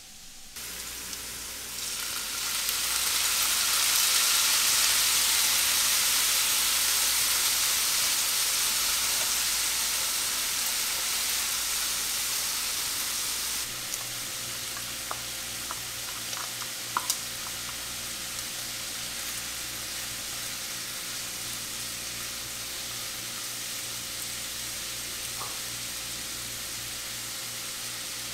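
Lotus root and carrot strips stir-frying in oil in a frying pan, sizzling. The sizzle swells loud over the first few seconds, then drops suddenly to a quieter, steady sizzle about halfway through, with a few light clicks.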